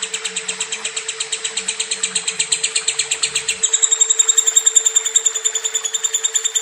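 Lovebird chattering in a long unbroken run of rapid high chirps, about ten a second, shifting to a shriller, more even trill about three and a half seconds in.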